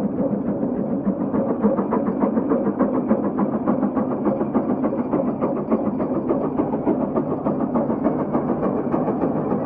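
Steam traction engine (the 150 Case road locomotive) under load, its exhaust chuffing in a rapid, steady beat while it pulls a plow.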